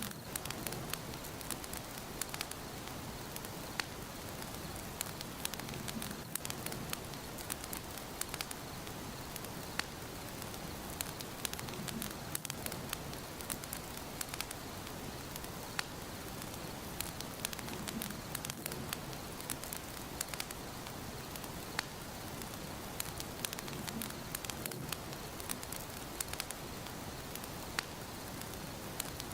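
Wood fire burning in a fireplace, with a steady hiss and frequent sharp crackles and pops.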